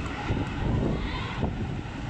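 Gusty wind buffeting the microphone in the wake of a passing express train, over the low rumble of the train moving away.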